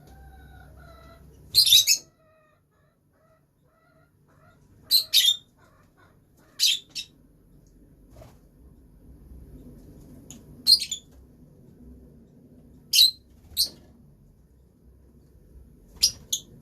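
Lovebirds giving short, sharp, high-pitched chirps, singly or in quick pairs every two to three seconds.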